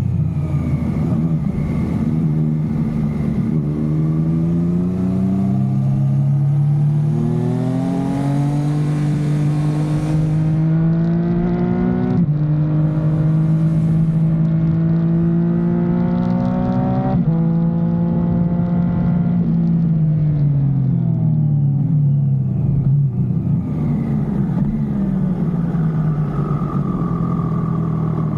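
2022 Triumph Street Triple RS's inline three-cylinder engine through a Leo Vince LV One exhaust, accelerating through the gears. The note climbs, drops sharply at two upshifts partway through, falls away as the bike slows, then settles to a steadier note near the end.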